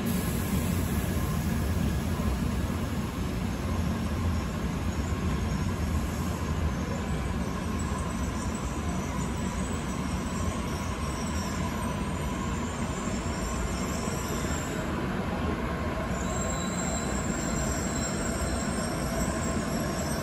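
Tokaido Shinkansen bullet train rolling slowly through the station and slowing, with a steady rumble of wheels on rail. Faint high-pitched squeals and whines come in during the second half.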